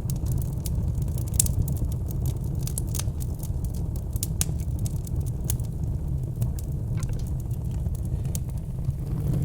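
Wood logs burning in a fireplace, crackling with many irregular sharp pops over a steady low rumble.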